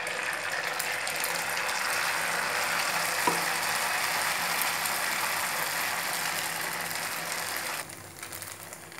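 Malpua batter of flour, milk and khoa frying in hot ghee in a shallow pan: a steady sizzle that drops away sharply near the end.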